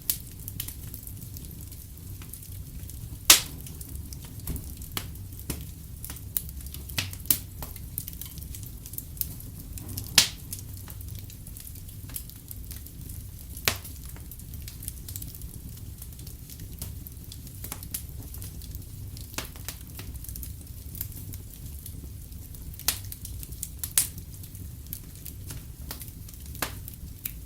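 Wood fire crackling in a fireplace: irregular sharp pops and snaps over a steady low rumble, the loudest pops coming about three and ten seconds in.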